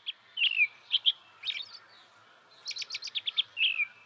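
A songbird singing: a quick trill of short high notes followed by a downward-sliding note, the phrase repeated about three seconds later, over faint rural background.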